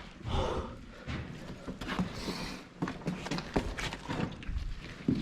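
A person breathing hard, with a few loud breaths, over scuffs, clicks and knocks of footsteps and movement on the tunnel's rocky floor.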